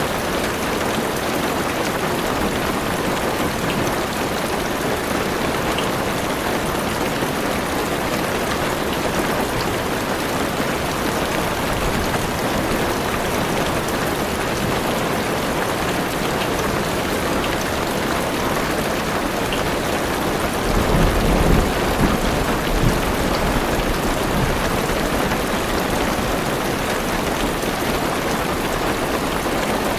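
Heavy rain drumming steadily on a car's roof and windows. About two-thirds of the way through, a low rumble of thunder rises under the rain for a couple of seconds.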